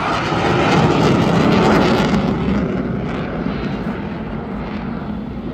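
Military aircraft flying past, its engine noise a loud, even roar that is loudest about one to two seconds in and then slowly fades.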